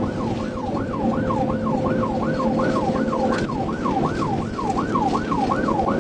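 Police car siren on yelp, rising and falling rapidly about three to four times a second, over the road noise of the pursuing cruiser at high speed.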